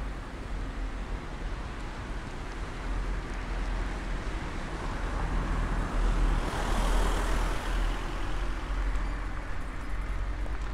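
Street traffic: a motor vehicle passes close, its sound swelling to a peak about six to seven seconds in and then fading, over a steady low rumble of street noise.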